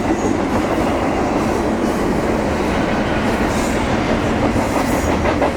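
A train passing close by: the steady, loud rolling noise of rail cars on the track.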